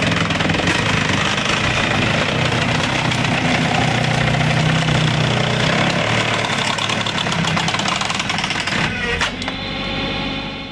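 A machine's engine running steadily under load, with rapid rattling and clatter. About nine seconds in, it gives way abruptly to a different engine sound.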